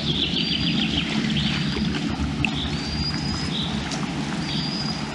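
A bird singing a short, slightly rising whistled phrase about once a second, with a trill in the first second or so, over a steady low rumble.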